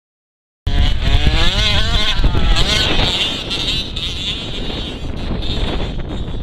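Small petrol two-stroke engine of an FG Monster Truck 4WD radio-controlled model running, cutting in abruptly about half a second in and revving up in rising pitch before settling into a steadier run.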